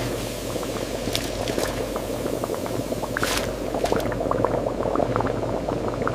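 Liquid bubbling and crackling at a steady boil, with many small pops over a low machine hum and a few brief hisses.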